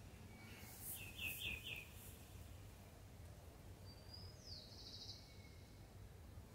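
Quiet outdoor background with a small bird chirping: a quick run of four chirps about a second in, then a single falling call a little after the middle.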